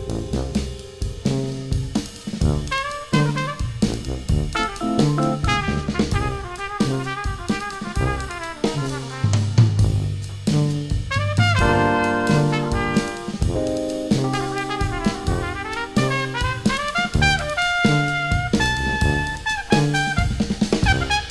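Jazz horn section of trumpets, baritone saxophone and tuba playing over a drum kit with hi-hat, the tuba walking a stepping bass line beneath held and moving brass notes.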